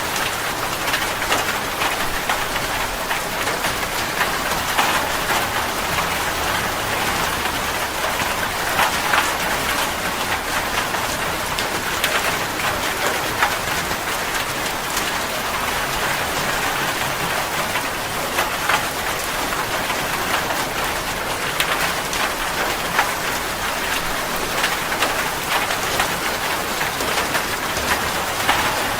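Steady rain falling, an even hiss with many close individual drops ticking on a surface.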